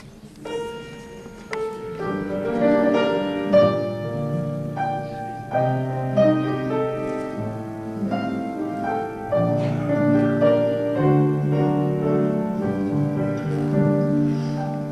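Piano playing the instrumental introduction to a Russian romance: a melody of struck notes over a moving bass line.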